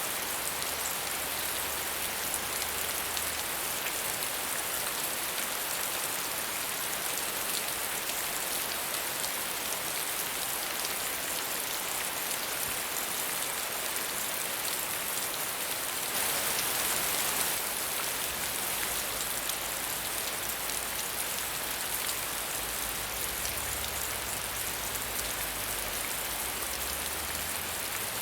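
Steady medium rainfall, an even hiss of drops falling on surfaces, swelling briefly a little after halfway.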